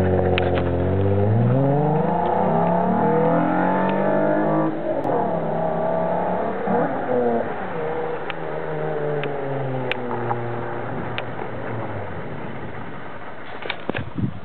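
Mazda MX-3's 1.8-litre V6 accelerating hard away, revs climbing for about five seconds, dropping sharply at a shift, climbing again, then fading out as the car drives off. Its exhaust still holds debris from a broken-up catalytic converter.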